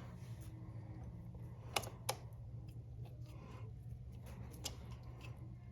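Light, scattered clicks and taps of small metal chain connecting-link parts and their O-rings being handled on a workbench, with two sharper clicks about two seconds in, over a low steady hum.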